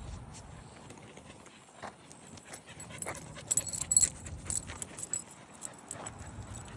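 Dogs at a dog park: a few short barks, with a cluster of sharp light clicks about halfway through.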